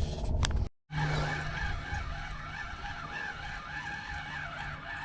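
A steady mechanical whine whose pitch wavers up and down, over a low steady hum. It begins after a brief, abrupt dropout about a second in.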